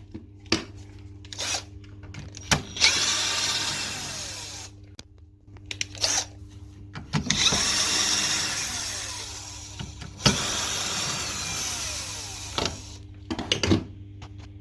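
A power drill or driver runs three times for a couple of seconds each, its pitch dropping off at the end of a run, with sharp clicks and knocks of parts being handled in between.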